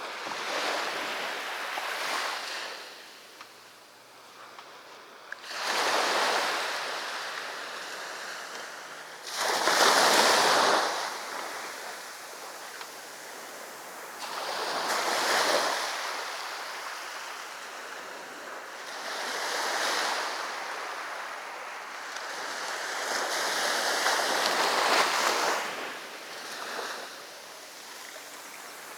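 Sea waves breaking and washing up the beach, rising and falling in surges about every four to five seconds, the loudest about ten seconds in.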